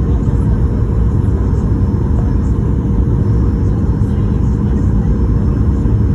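Steady low rumble of a Boeing 737-800's CFM56-7B turbofan engines and rushing air heard inside the passenger cabin on approach, with a faint steady hum over it.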